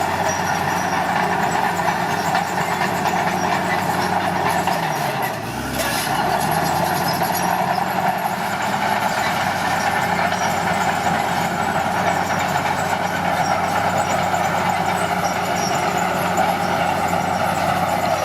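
Komatsu D41P bulldozer's diesel engine running steadily under load. About five seconds in, its note sags briefly, then picks back up.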